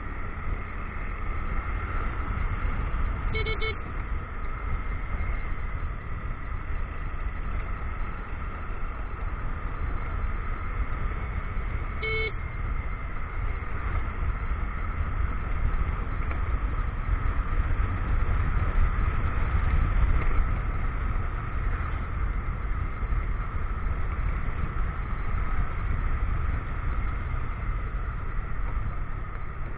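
Motorcycle riding: engine running steadily under a constant low wind-and-road rumble on the action-camera microphone. Two short horn toots about 3.5 s and 12 s in.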